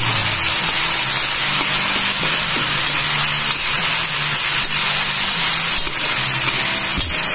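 Sliced beef offal and peppers sizzling in a hot stainless steel pan as they are stir-fried, with a steady hiss and about one click a second from a metal spoon knocking and scraping against the pan.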